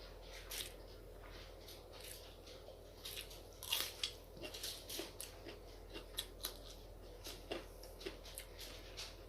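Close-up eating: mouth and chewing sounds, with many short, irregular crisp clicks and crunches, the loudest about four seconds in.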